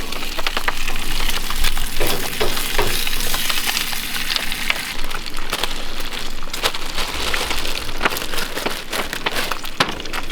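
Bacon sizzling in a frying pan: a steady hiss full of small sharp pops and crackles of spitting fat.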